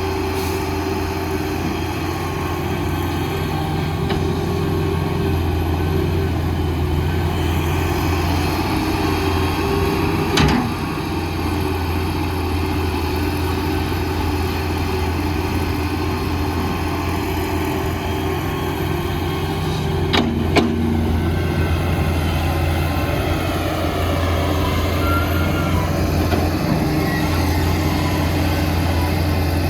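Heavy diesel construction machinery running steadily with a low engine drone. There is a sharp knock about ten seconds in and two more close together about twenty seconds in.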